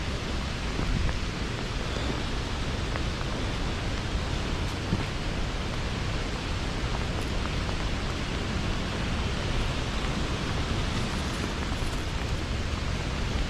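Steady rushing of falling water from a waterfall, mixed with rain, an even unbroken wash of noise.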